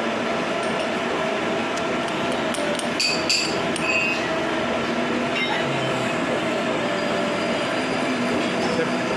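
A machine running steadily, with several held tones over a noisy hum, and a few light metallic clinks about three to four seconds in.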